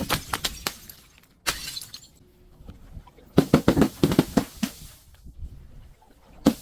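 Glass being crushed and breaking in bursts of sharp crunching and cracking: a short cluster at the start, a brief burst about a second and a half in, a longer run of cracks in the middle, and another starting at the end.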